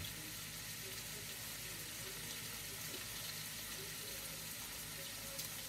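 Vegetables frying in a pan, a faint steady sizzle.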